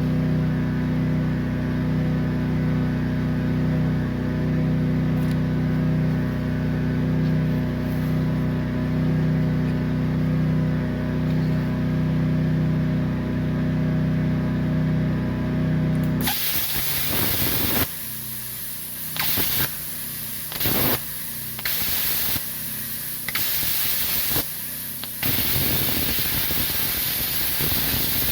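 A machine hums steadily with a fixed pitch for about sixteen seconds, then stops as a plasma cutter torch starts a loud hiss of compressed air; the hiss cuts out and starts again several times in quick succession as the trigger is pressed and released.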